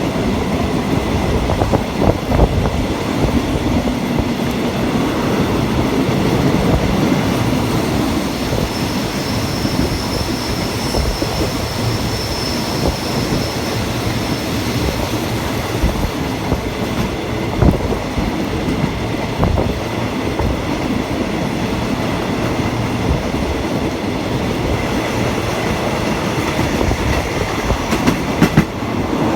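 Passenger train running on the rails, heard from aboard: a steady rumble of wheels and carriage with occasional sharp knocks over rail joints, and a faint high squeal for a few seconds in the middle.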